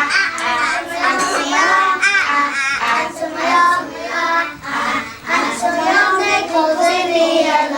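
Young children singing a phonics letter-sound song together, in continuous sung phrases.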